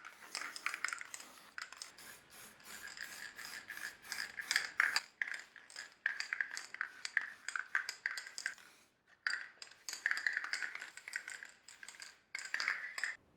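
Irregular rubbing and scraping strokes on a hard surface, with a short pause partway through. The sound stops abruptly near the end.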